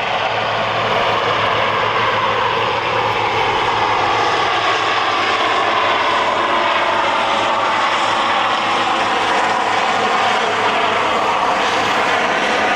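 Marine Corps presidential helicopter flying low overhead, its rotor and engines loud and continuous, the pitch sliding slowly lower as it passes.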